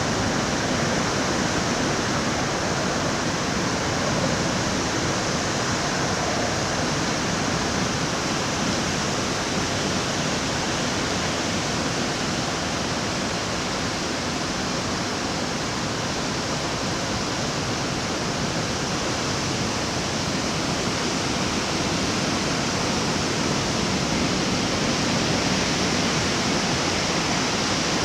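Heavy typhoon rain and wind: a steady, even rushing noise that swells slightly near the end.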